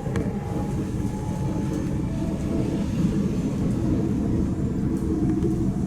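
Passenger train running, heard from inside the carriage: a steady low rumble with faint whining tones on top at times.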